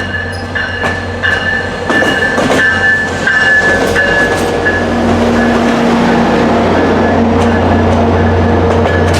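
VIA Rail passenger train pulling into the station: wheels clicking over the rail, a high steady squeal on and off in the first few seconds, then the locomotive's diesel engine hum growing louder from about five seconds in as it approaches to make its stop.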